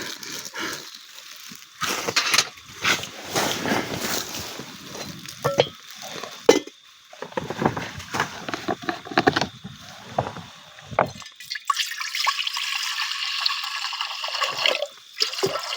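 Water sloshing and dripping in a cooking pot, with scattered knocks and clatters. About twelve seconds in, a steady pour of water starts and runs for about three seconds.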